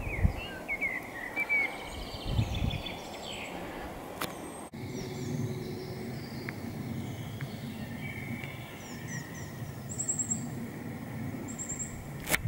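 Wild birds chirping and singing in the open air, with two short high trills near the end. There is a faint low outdoor rumble underneath, and a sharp click about four seconds in and another at the very end.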